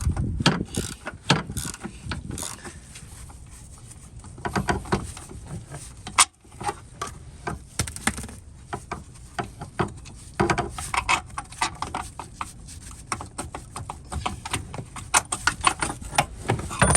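Hand ratchet wrench clicking in quick runs as a freshly broken-loose bolt is worked by hand, with some clinks of metal tools in between.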